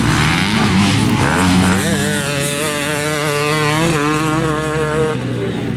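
Motocross dirt bike engine running at high revs under hard throttle, its pitch rising and dipping rapidly as the throttle is worked.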